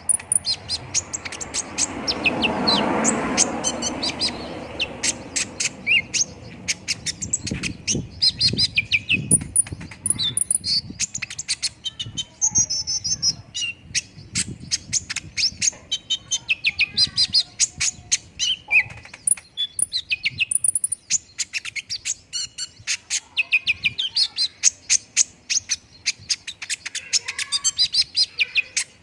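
Kolibri ninja sunbird singing a fast, continuous string of high, sharp chirps and trills, used as a lure recording to prompt other birds to sing. A brief rushing noise swells and fades in the first few seconds.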